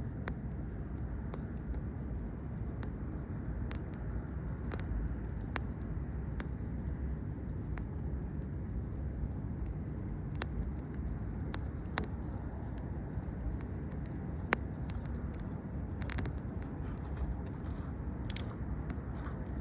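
Campfire burning, with scattered sharp pops and crackles over a steady low rumble.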